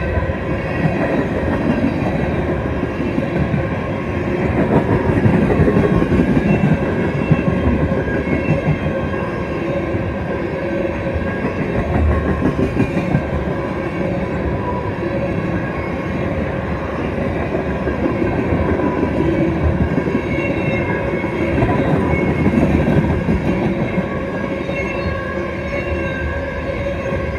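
Freight cars of a Canadian Pacific train, tank cars and covered hoppers, rolling past close by: a loud, steady rumble of steel wheels on rail, with faint steady ringing tones riding over it.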